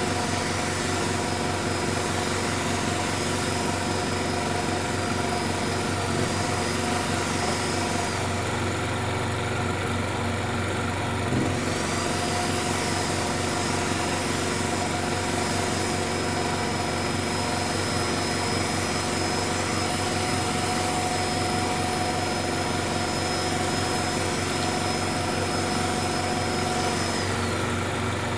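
An engine running steadily at an even speed, with a thin high whine that stops for a few seconds in the middle and drops away near the end.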